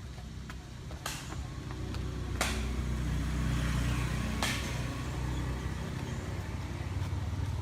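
A motor vehicle engine running, growing louder from about two seconds in, with three sharp clicks.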